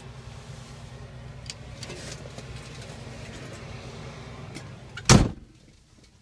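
A steady low hum with small knocks, then a truck cab door shuts with one loud thud about five seconds in, after which the hum is shut out and it goes much quieter.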